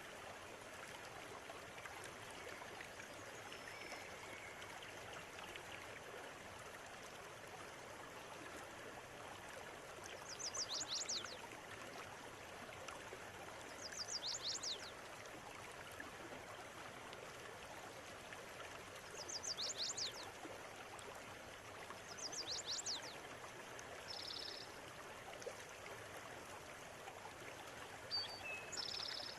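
River water running steadily, with a bird singing short phrases of quick, high, downward-sweeping notes, about six times a few seconds apart from about a third of the way in.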